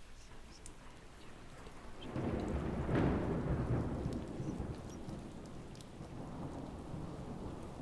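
Steady rain with a rolling rumble of thunder that builds about two seconds in, peaks a second later and slowly dies away.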